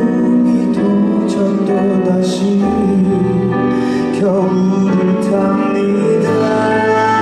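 Live concert music: a male voice singing a ballad over instrumental accompaniment.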